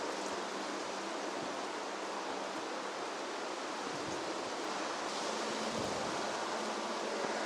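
Wind blowing through a field of green barley, a steady rustling hiss.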